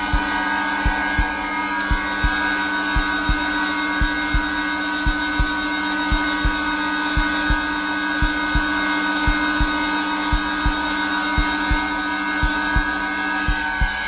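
Zelmer vacuum cleaner running steadily on its lowest power setting, a constant hum with a whine, under a heartbeat: low thumps in an even, unbroken rhythm.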